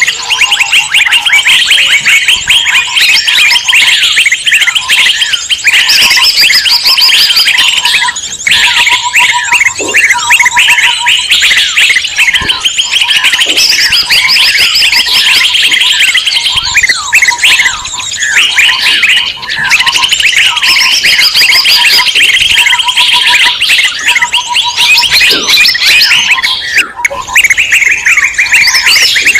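A dense, noisy chorus of many small songbirds chattering and calling at once, the agitated 'ribut' bird clamour used as a lure to draw in wild birds. A lower, rapidly repeated piping note comes and goes in runs beneath the high chatter.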